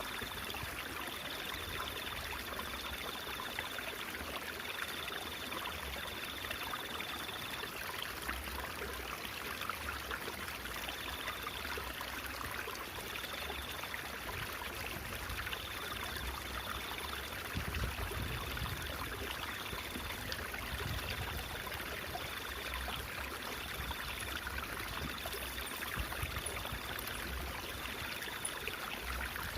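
Water babbling and trickling steadily, like a small stream running over stones.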